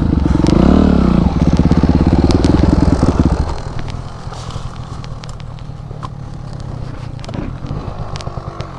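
Motorcycle engine revving hard under load for about three and a half seconds, its pitch rising early on, then dropping back to a quieter running. Scattered crackling and scraping runs through the second half.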